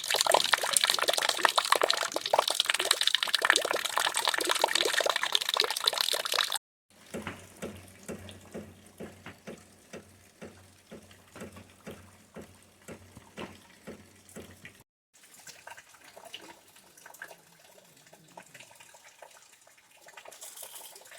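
Water pouring and splashing, dense and loud, cutting off suddenly about six and a half seconds in. Then a quieter stretch of regular taps about twice a second over a low hum, and faint patter near the end.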